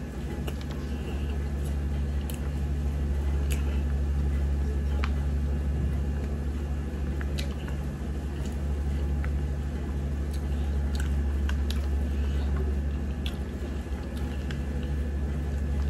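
A person chewing tandoori chicken and biryani eaten by hand, with scattered small mouth clicks, over a steady low hum.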